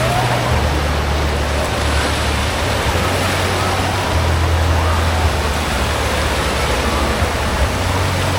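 Steady rushing of churning water, with faint distant voices calling out over it.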